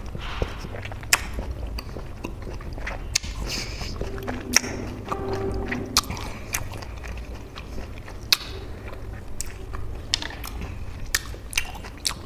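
Close-miked wet chewing of juicy peeled orange segments coated in chili salt, with sharp, irregular mouth clicks and smacks.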